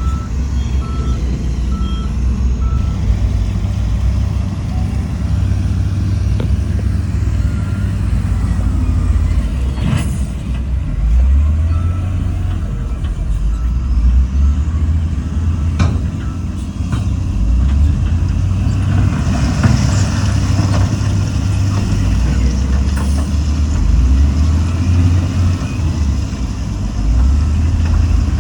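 Heavy diesel engines of dump trucks and earthmoving machines running under varying load, with a reversing alarm beeping in an evenly spaced series for the first few seconds and briefly again about twelve seconds in. A couple of sharp knocks and a hiss around twenty seconds in.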